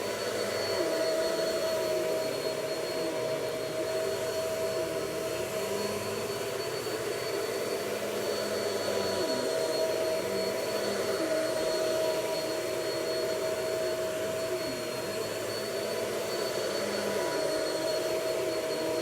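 Vacuum cleaner running steadily with a constant high whine over its motor hum, the lower note dipping slightly every few seconds as it works.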